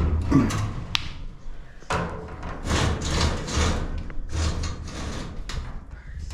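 A run of knocks, thuds and scrapes of things being handled, with a sharp click about a second in.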